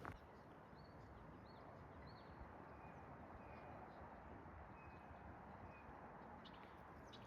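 Near silence with faint birdsong: three short chirps about a second in, then a few thin, level whistled notes in the middle.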